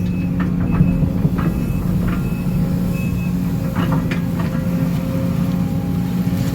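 Case CX210D excavator's diesel engine running steadily with its hydraulics working, with a few light knocks from the digging.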